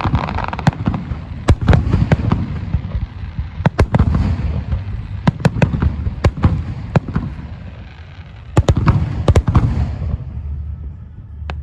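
A fireworks display: aerial shells bursting in many sharp bangs, often several in quick succession, over a continuous rumble. The bangs thin out near the end.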